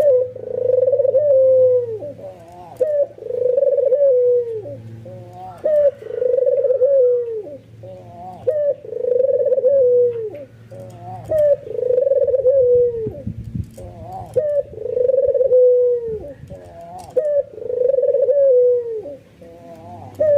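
White albino puter (Barbary dove) in full bowing-coo display, calling over and over. Each phrase is a few short rising notes followed by a long coo that drops in pitch at its end, repeating about every two and a half seconds.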